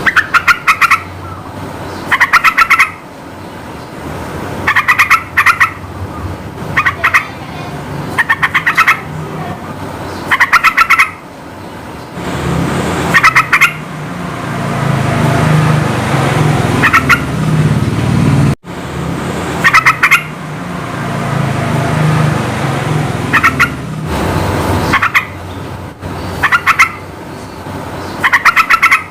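Yellow-vented bulbul (trucukan) singing: short, loud bursts of rapid bubbly notes, repeated every second or two. Under them is a low background rumble that swells and fades twice.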